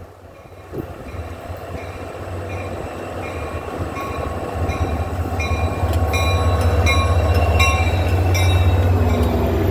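NJ Transit Atlantic City Line train approaching, its low rumble growing steadily louder. A bell rings over it about twice a second.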